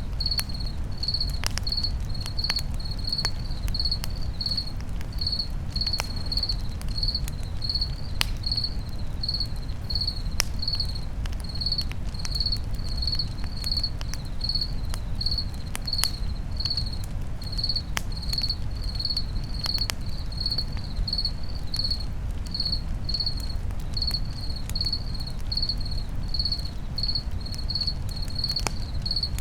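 A cricket chirping steadily, a little under two high chirps a second, over the occasional sharp crackle and pop of a campfire and a steady low rumble.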